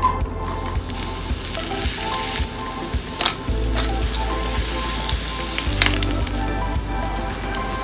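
Diced onion, green bell pepper and ham frying in butter in a nonstick skillet with a steady sizzle, then beaten eggs cooking as a silicone spatula stirs them. A couple of sharp ticks come from the spatula against the pan.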